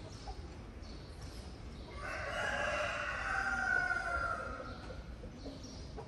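One long bird call lasting about three seconds, starting about two seconds in.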